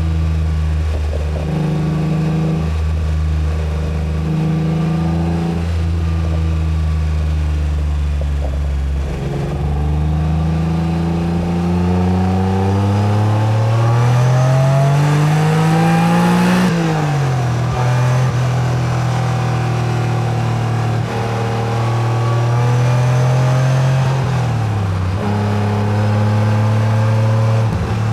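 Acura NSX V6 engine cruising steadily at first, then pulling under acceleration with its pitch climbing for about seven seconds. A gear change about two-thirds of the way in drops the pitch sharply. It then runs steadily, the revs fall away briefly, and it settles again near the end.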